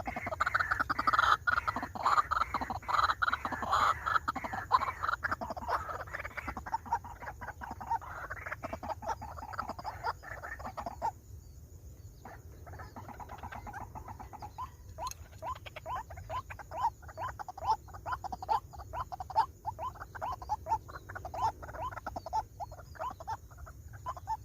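White-breasted waterhens calling: dense, rapidly repeated calls for the first ten seconds or so, a short break about eleven seconds in, then a quick, even series of short calls, several a second.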